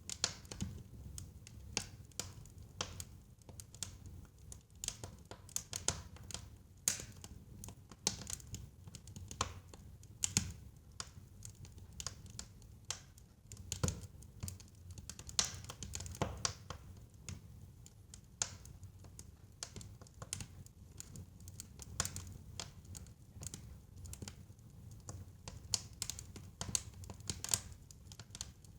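Wood fire crackling in a fireplace: frequent sharp pops and crackles over a low, steady rumble of flames.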